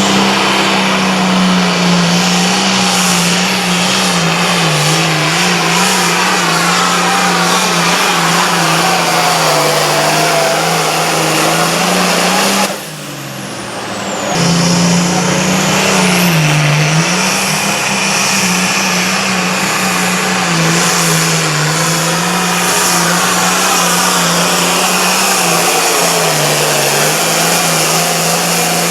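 Competition pulling tractor's engine running at high, nearly steady revs under load during a pull, its pitch dipping slightly now and then. About halfway it drops away for a second or so, then comes back just as loud.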